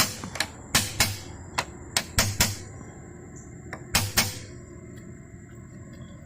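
Sharp knocks and clicks of tools and metal parts as parts are fitted to a motorcycle, some in quick pairs, stopping after about four seconds.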